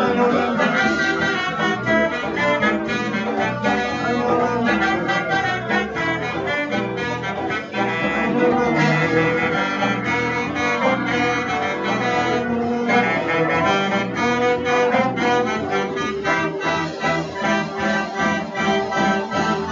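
Live band playing an instrumental passage with a horn section over a steady drum beat.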